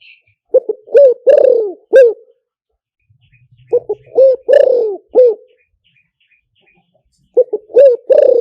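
Spotted dove cooing: three loud phrases of about four hoarse coos each, a few seconds apart. Faint high chirps of small birds sound between the phrases.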